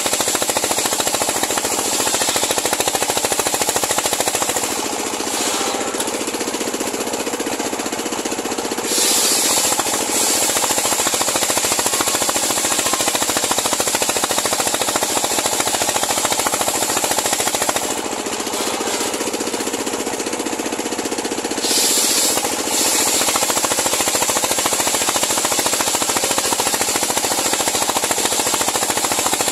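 Homemade engine-driven circular sawmill running as its blade cuts lengthwise through a large pule log. The sound is loud and steady, and eases twice, about five and eighteen seconds in, each time rising again briefly a few seconds later.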